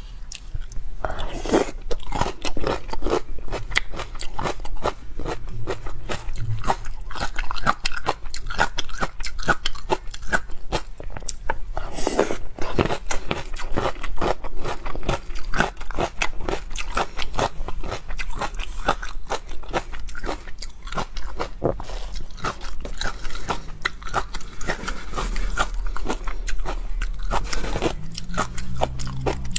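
Close-miked crunching and chewing of whole vinegar-pickled green (Laba) garlic cloves with chopped chili: dense, crisp bites and mouth noises. There are heavier crunches about a second in and about twelve seconds in.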